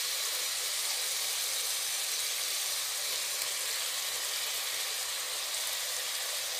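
Steady sizzle of onion, tomato and herb masala frying in oil in a pressure cooker pot, with raw chicken pieces just added.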